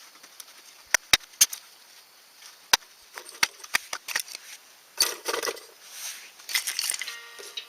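Wood campfire crackling with scattered sharp pops, several in the first half, then a couple of short rustling, scraping handling noises near the end.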